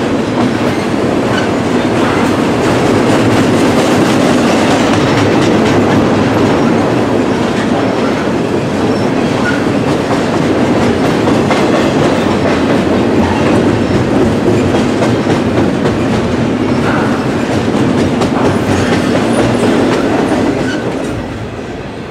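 A train rolling past close by, its wheels clattering steadily over the rails, loud throughout and easing off near the end.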